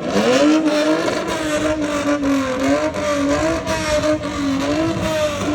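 A car's engine revved hard as it pulls away. The pitch shoots up at the start, then is held high, wavering up and down without settling.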